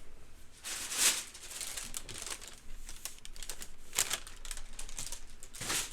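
A pharmacy medicine bag crinkling and rustling as it is handled and opened, with louder crinkles about a second in, near four seconds and near the end.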